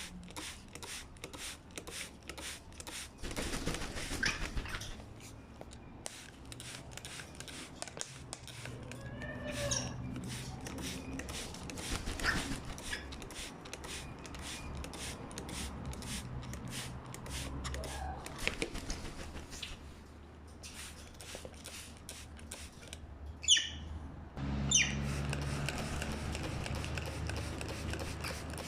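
A parrot's short whistles and chirps over light clicking and rustling, with two loud, shrill rising calls in quick succession near the end.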